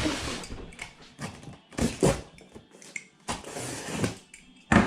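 A cardboard shipping box being cut open and its flaps pulled apart: several separate bursts of scraping and rustling cardboard and tape.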